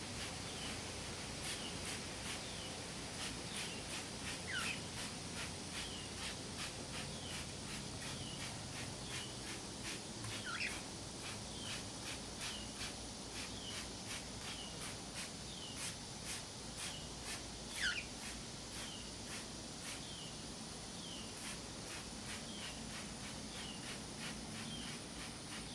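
Hand-pump spray bottle spritzing water over and over, a short hiss about two or three times a second. Under it a cockatiel gives soft little chirps and, three times, a longer falling whistle.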